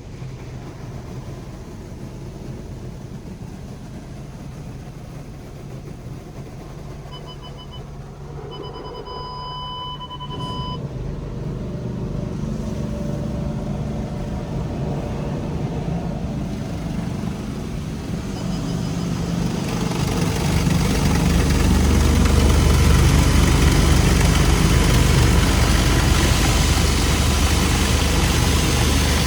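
Automatic car wash tunnel running with a steady low mechanical rumble. A short electronic beep comes about seven seconds in, then a longer beep tone from about eight to eleven seconds. A loud, even rushing noise of the wash machinery builds from about two-thirds of the way in.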